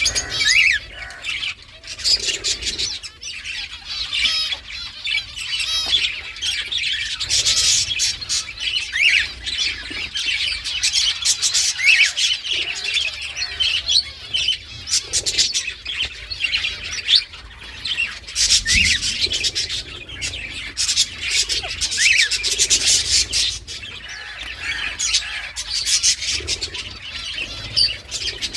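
Indian ringneck parakeet chattering with rapid chirps and squawks, with a short rising whistle every few seconds.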